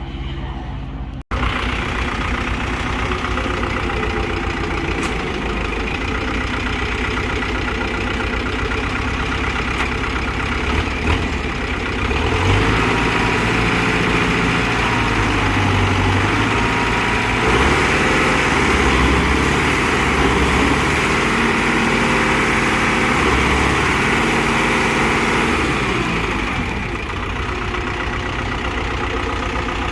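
Kubota M6040SU tractor's diesel engine running steadily. Through the middle it grows louder, its pitch rising and falling as it works harder, then it settles back near the end. A brief break in the sound about a second in.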